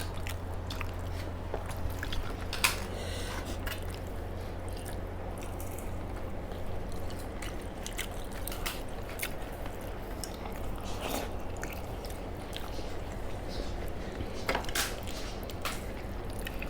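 Eating sounds: faint chewing with a few sharp clicks and taps, over a steady low hum.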